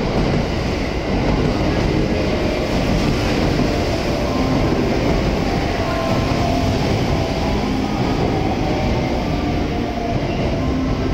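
JR West 683 series electric limited-express train pulling in alongside the platform and slowing, with a steady loud rumble of wheels on rails. A high whine of steady tones comes in from about four seconds in.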